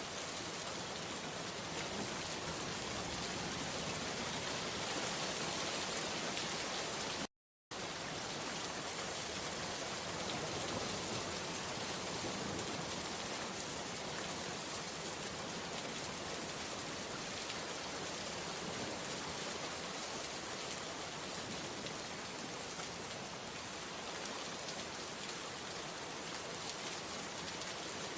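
Steady rain falling, an even dense hiss of drops. The sound cuts out completely for a fraction of a second about seven seconds in, then resumes unchanged.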